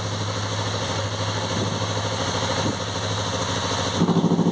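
Yamaha MT-03 parallel-twin motorcycle engine idling steadily, growing louder near the end.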